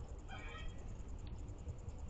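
A short bird call, about half a second long, just after the start, over a steady low background rumble.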